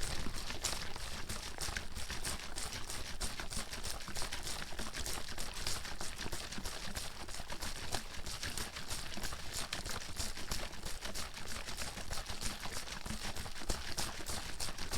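Water bottle being shaken steadily, the water sloshing and splashing inside in a rapid, continuous rhythm.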